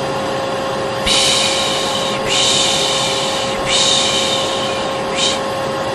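Vacuum cleaner running with a steady hum, overlaid by a repeated human 'shhh' shushing sound: three long shushes one after another, then a short one near the end. This is the 'piş piş' shushing used to soothe babies, paired with vacuum noise as calming white noise.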